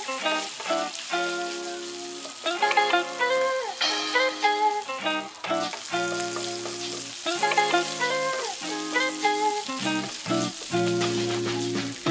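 Pork liver strips sizzling in hot oil in a frying pan, stirred with a wooden spatula. Background music with held melodic notes in short phrases plays over it.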